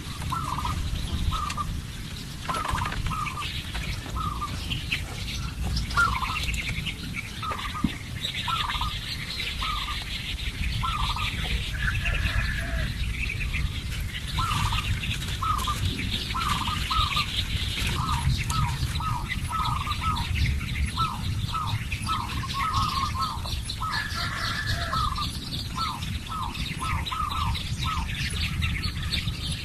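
Birds calling, one repeating a short note about once or twice a second, with other birds higher and a steady low rumble underneath.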